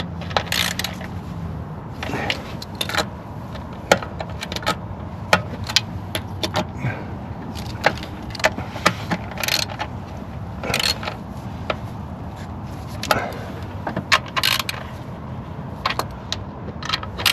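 Hand ratchet clicking in short runs while snugging down intake plenum bolts, with scattered metallic clinks of tools.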